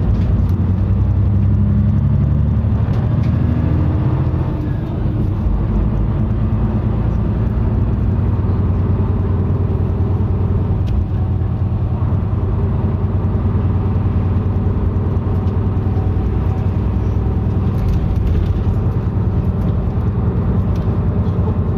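Route bus engine and road noise heard from inside the passenger cabin: a steady low drone, with the engine pitch shifting a few times in the first few seconds.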